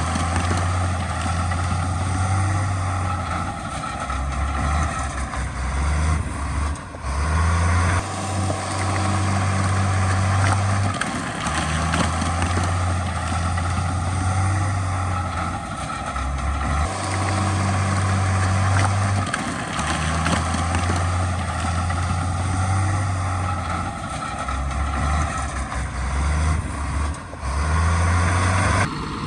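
Heavy diesel earthmoving machinery running: a low engine drone that comes and goes and shifts pitch in steps, over a steady noisy rumble.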